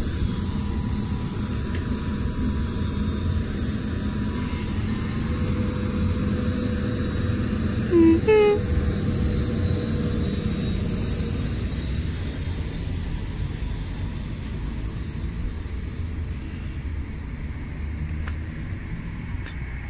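Class 319 electric multiple unit pulling out past the platform close by: a steady low rumble of wheels and running gear that slowly fades. A brief two-note sound about eight seconds in.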